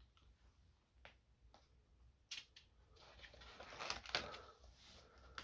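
Faint handling of old paperwork: a few soft clicks and taps, then a couple of seconds of paper rustling about halfway through.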